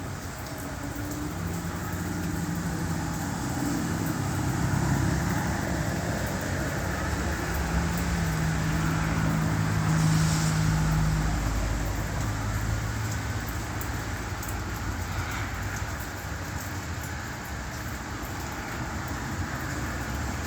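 Road traffic on a rain-wet street: vehicle engines running with tyre and road noise, swelling louder around the middle.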